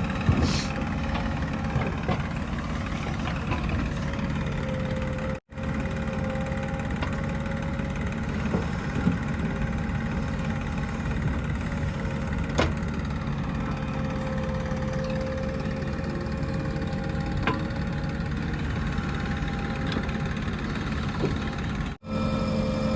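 Diesel engine of a JCB 3DX backhoe loader running steadily at low revs, with a few sharp knocks scattered through. The sound drops out briefly twice.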